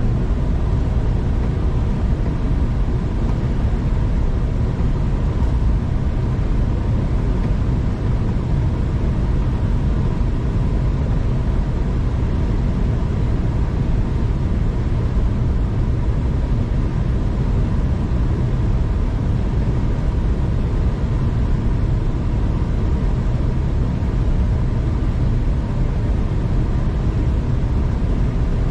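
Steady low rumble of a V/Line passenger train in motion, heard from inside the carriage, with a faint steady whine above it.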